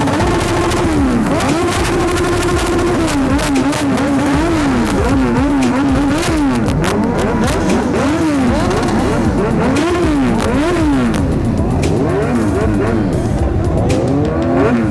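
Several superbike engines revving hard at once, their revs climbing and dropping over and over, with sharp cracks from the exhausts in between.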